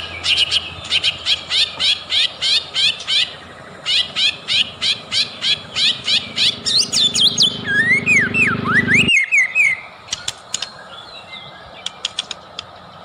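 White-rumped shama (murai batu) singing fast runs of sharp repeated chirps, about three a second, then a few swooping whistles. The song cuts off abruptly about nine seconds in, leaving only a few sparse faint chirps.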